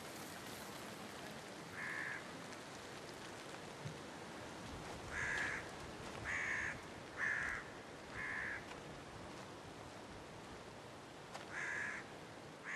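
A bird giving six short, harsh calls spread across the stretch, over a faint steady hiss.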